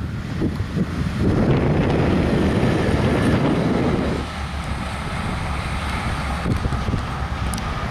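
A Class 180 Adelante diesel multiple unit passing at speed, a loud rush of noise from about a second in that eases after about four seconds into a lower steady rumble. Wind buffets the microphone.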